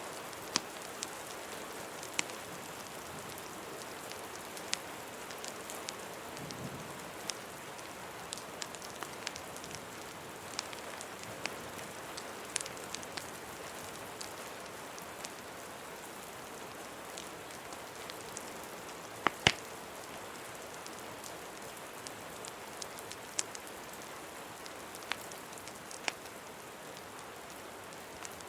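Steady rain hissing, with scattered sharp pops and crackles from a wood fire on top, the loudest a quick double pop about two-thirds of the way through.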